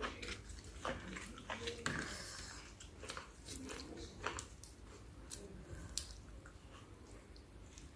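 Close-up eating sounds of a person biting and chewing spicy chicken-feet salad: irregular wet clicks and crunches, busiest in the first few seconds, then softer chewing.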